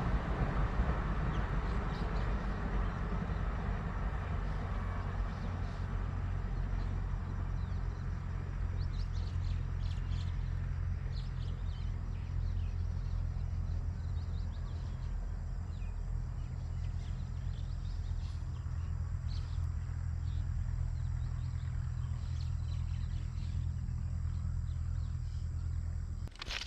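A receding express train: the rumble of its coaches on the rails fades over the first several seconds, over a steady low drone from its distant WDM 3A ALCo diesel locomotive. Birds chirp from about a third of the way in.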